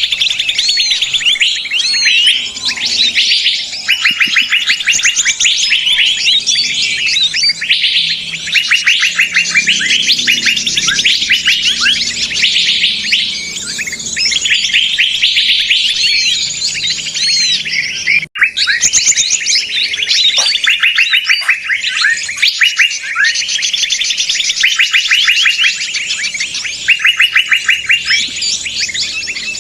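A crowd of small songbirds chattering all at once, rapid overlapping chirps and trills in a dense, unbroken din: a 'ribut' bird-lure recording meant to draw birds in. The sound cuts out for an instant a little past halfway.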